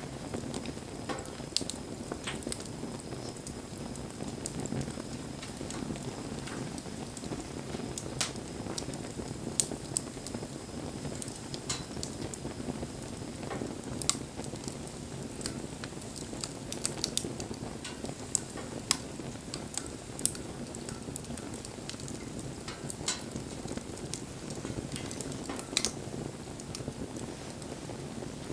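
Wood fire burning: a steady low rush of flame with irregular sharp crackles and pops, a dozen or so louder snaps scattered through.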